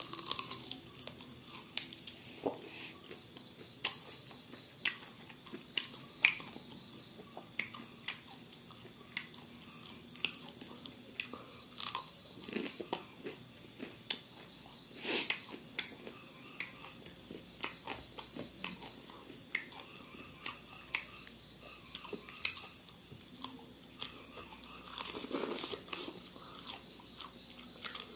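Close-miked chewing and biting on fried meat pieces eaten by hand: irregular wet smacks and sharp crunches, several a second at times, with a few louder bites.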